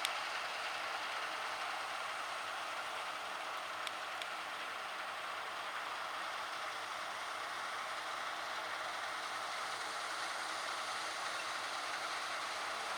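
Claas Lexion 670 combine harvester running steadily while harvesting wheat, an even mechanical hum with faint engine tones.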